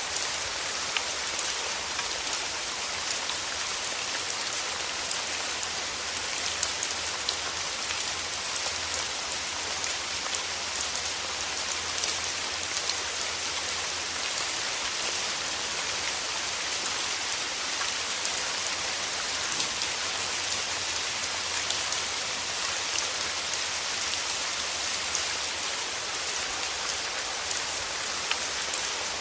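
Steady rain falling: a dense, even hiss of rainfall with many small drop ticks scattered through it.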